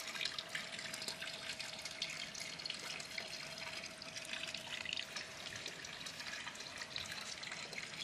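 Rain falling steadily, a dense run of small drop ticks, with a faint steady tone underneath.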